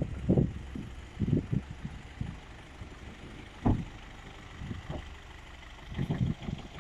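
Foton pickup truck's Cummins engine idling steadily, with a few short low thumps over it.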